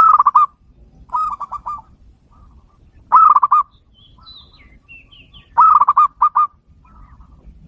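Zebra dove (perkutut) cooing: four phrases of quick, wavering coos with pauses between, the last phrase broken in two. Faint thin high chirps sound between the second and third phrases.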